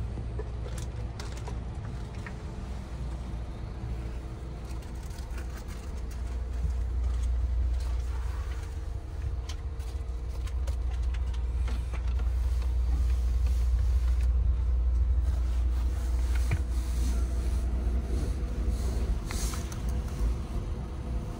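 Interior rumble of the Sunrise Seto sleeper train running: a steady low rumble with a faint hum and scattered small clicks and creaks, growing louder about halfway through.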